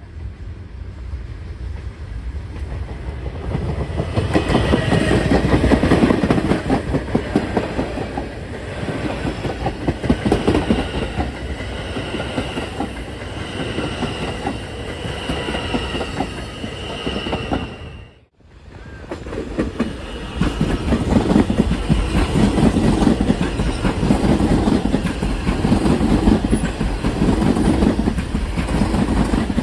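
New York City subway M train running on the rails, with wheels clacking over the track and a high steady whine through the middle. The sound drops out for a moment a little past halfway, then the train noise picks up again.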